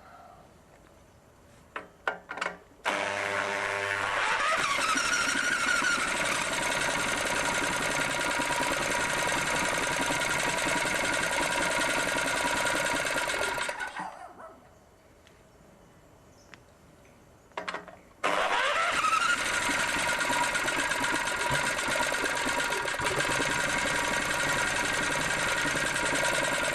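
Small engine running on gas from a GEET reactor bubbler filled with a dirty diesel-and-soap mix. It starts after a few clicks, rising in pitch as it comes up to speed, and runs steadily for about ten seconds. It then dies away, and after a few quiet seconds it is started again and runs on, still cold.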